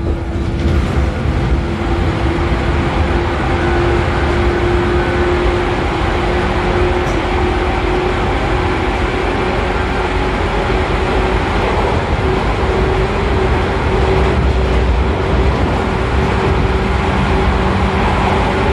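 Running sound inside a JR 113 series motor car at speed: the rumble of wheels on rail under the whine of its MT54 DC series-wound traction motors and gearing. The whine is a steady tone that rises slowly in pitch as the train gathers speed.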